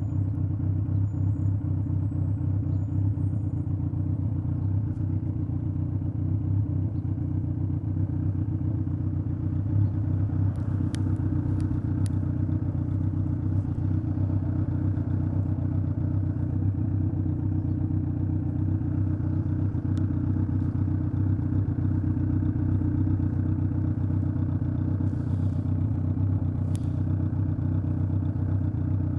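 Straight-piped Kawasaki Z900 inline-four running steadily at low revs, its exhaust note holding pitch without revving. A few faint clicks sound over it.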